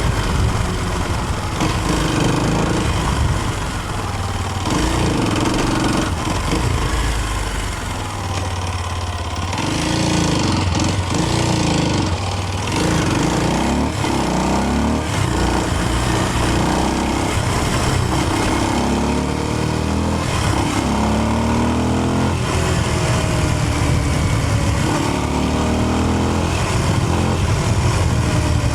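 Kawasaki KLX230's air-cooled single-cylinder engine revving up and down while riding, its note climbing again and again, with a steady rushing noise over it.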